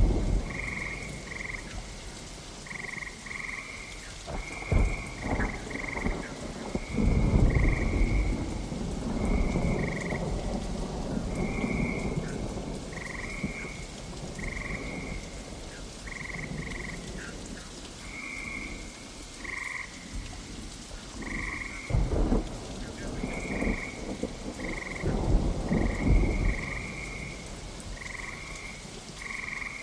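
Steady rain with several rolling rumbles of thunder, the longest about a quarter of the way in and two more about three quarters through. Frogs call over it in short, repeated croaks, about one a second.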